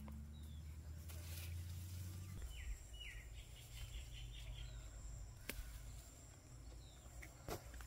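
Faint outdoor garden ambience with a low rumble. A bird calls a short run of quick notes about two and a half seconds in, and there are two sharp clicks in the second half.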